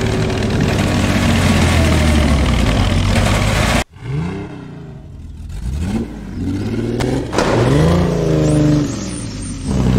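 Jaguar E-Type sports car engine running loud and rough through its oversized exhaust pipes, cut off suddenly about four seconds in. After that the engine is heard quieter and duller, revving up and falling back several times.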